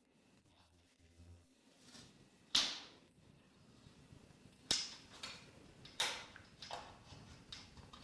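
A series of sharp knocks and taps, three louder ones a couple of seconds apart with softer ones between them.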